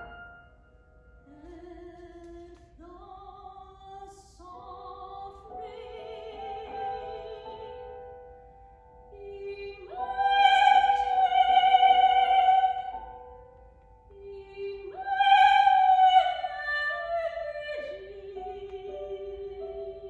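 Classical art-song singing in an operatic style: long held notes with vibrato, swelling to two loud high phrases, one around ten seconds in and one around fifteen seconds in, with a faint instrumental accompaniment underneath.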